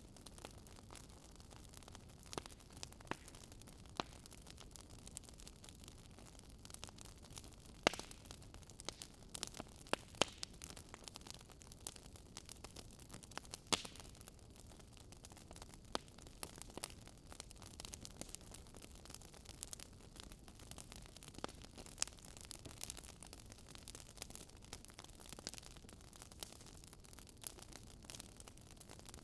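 Wood fire burning in a fireplace, crackling: a low steady hiss under irregular sharp pops and snaps, a few louder ones scattered through.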